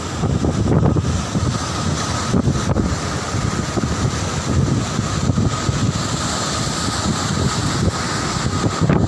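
Wind buffeting the microphone in a steady rumbling rush, with a faint steady whine beneath it.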